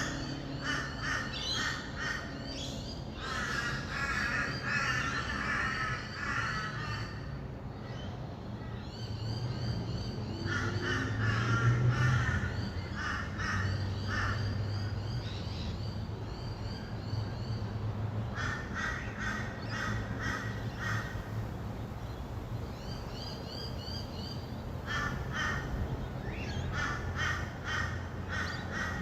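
Rainbow lorikeets screeching in bursts of rapid, harsh chattering calls with short pauses between bursts. A steady low hum of distant traffic runs underneath and swells as a vehicle passes about twelve seconds in.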